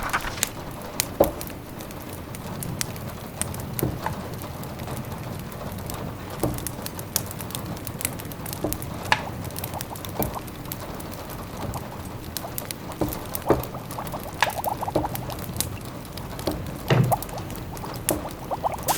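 Layered cottage ambience: a wood fire crackling with scattered sharp pops over a steady patter of rain. A simmering pot adds short runs of bubbling about fifteen seconds in and again near the end.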